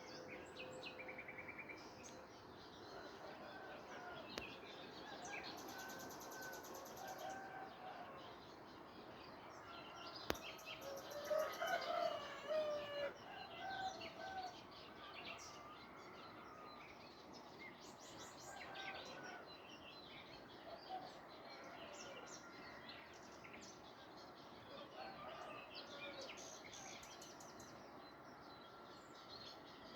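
Morning birdsong: many birds chirping and trilling, with short high trills every few seconds. A louder, lower call lasts about two seconds, starting about eleven seconds in.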